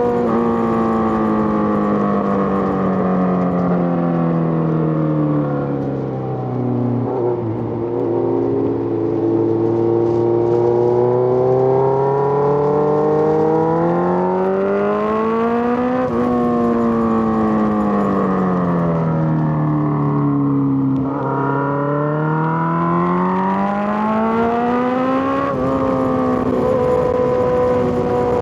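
Suzuki GSX-R1000 inline-four engine under way, its revs falling for several seconds, holding low, then climbing and falling again twice. Near the end the pitch jumps suddenly, as at a gear change.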